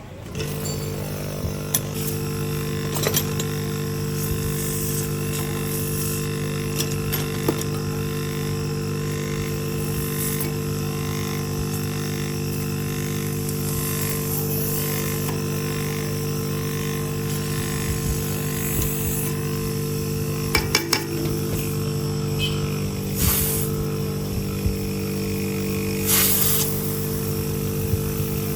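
An electric motor starts and runs with a steady hum, with scattered sharp clicks and metal taps over it.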